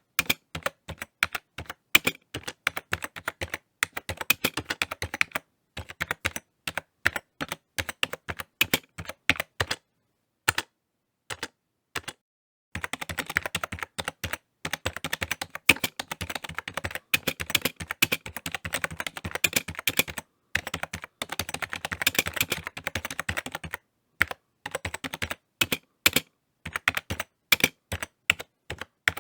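Typing on a computer keyboard: rapid key clicks in runs, with brief pauses and one longer pause of about two seconds near the middle, then a fast, unbroken flurry of keystrokes.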